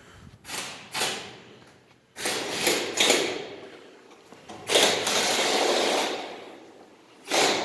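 Metal scraping and knocking from work on a round-baler roller being taken apart. It comes as a series of separate bursts, the longest a steady scrape of about a second and a half just before the middle.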